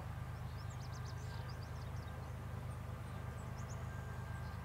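Steady low rumble of the approaching coal train's diesel locomotives, heard from a distance, with small birds chirping briefly about half a second to a second and a half in and again near the end.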